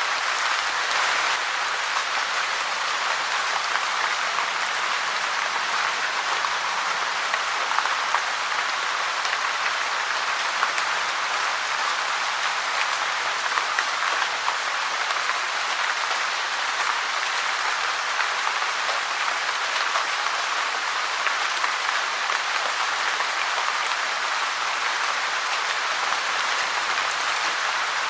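Steady rain falling: an even hiss of many drops, with scattered sharper drop ticks.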